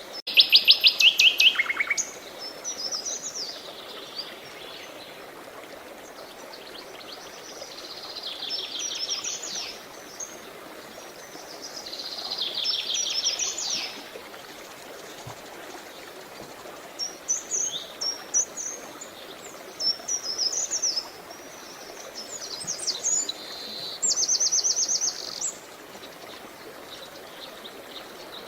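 Several songbirds singing in short phrases of chirps and fast trills every few seconds, with a loud rapid trill at the start and another near the end. Beneath them runs a steady hiss of flowing water.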